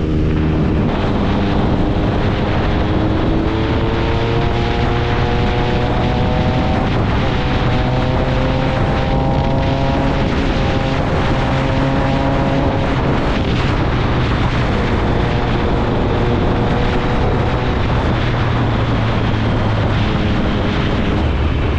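Triumph Speed Triple 1050's inline three-cylinder engine with an SC Project exhaust, heard from the bike on the move. Its note climbs and eases several times with the throttle, over steady wind noise on the microphone.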